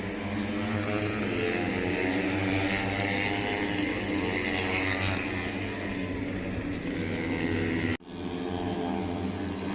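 An engine running steadily, with an even low hum under a noisy rushing haze. The sound breaks off sharply about eight seconds in and picks up again at once.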